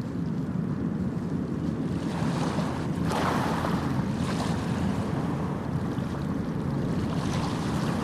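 Sea waves breaking and washing in, a steady low rumble of surf with swells of hissing spray, the strongest about three seconds in and smaller ones later.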